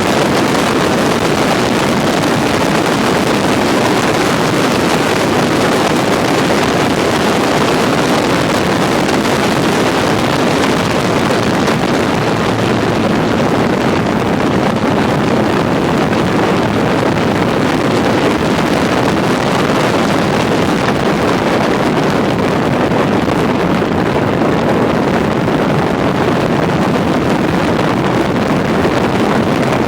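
Steady wind rush over the microphone mixed with engine and road noise from a motorcycle riding at steady speed.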